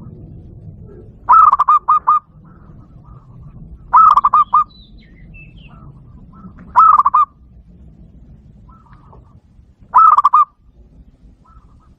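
Zebra dove calling: a quick stuttering string of cooing notes, repeated four times about every three seconds.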